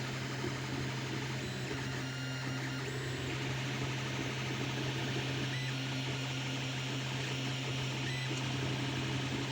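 Creality Ender 3 Pro 3D printer printing: a steady fan hum under the stepper motors' short whines, which start, stop and change pitch as the print head moves.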